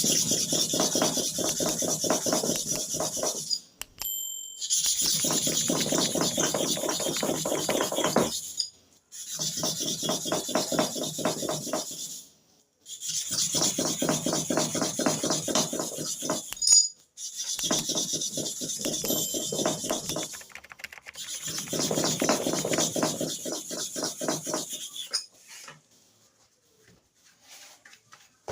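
Metal clipper blade rubbed back and forth fast on a sharpening stone, in six spells of rapid scraping strokes of a few seconds each, with short pauses between.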